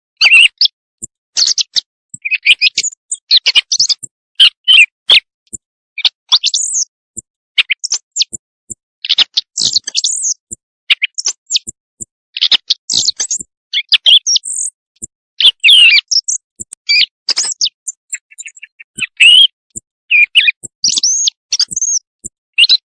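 Bird-call lure recording playing: a rapid, irregular string of high chirps, trills and whistles with short gaps between phrases.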